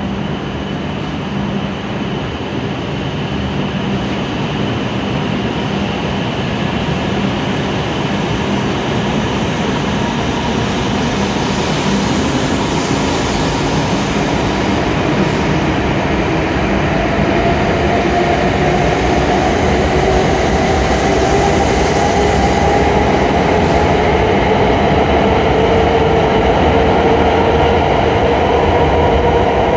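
E7 series Shinkansen train pulling out and gathering speed past the platform. A rumble grows steadily louder, and from about halfway in the motor whine rises in pitch as it accelerates.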